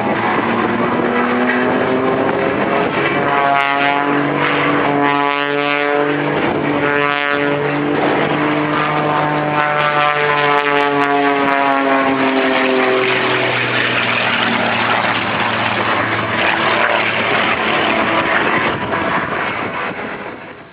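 Propeller-driven aerobatic stunt plane's engine and propeller droning overhead. The pitch climbs over the first few seconds, holds, then slowly sinks as the plane manoeuvres. The sound fades out near the end.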